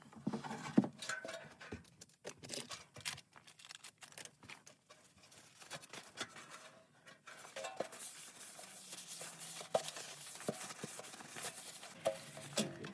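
An irregular run of clicks, taps and light clattering, like parts and tools being handled.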